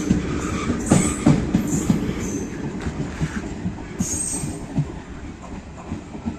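ICF passenger coaches of a departing train rolling on the rails, their wheels knocking over rail joints with brief high wheel squeals. The sound fades steadily as the train draws away.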